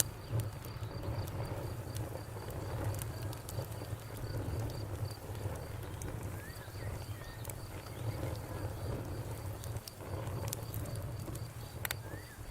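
Campfire crackling, with scattered sharp pops over a low steady rumble. A cricket chirps in an even, quick pulse in the background.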